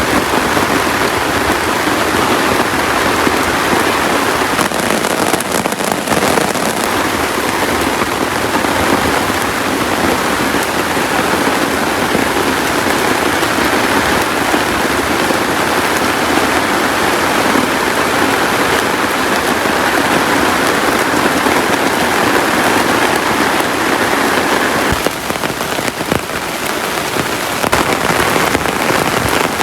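Heavy rain pouring steadily, easing briefly a little over three quarters of the way through before picking up again.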